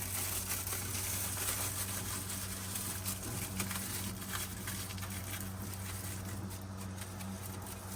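Thin aluminum foil crinkling in irregular little crackles as it is pressed and wrapped around engine parts, over a steady low hum.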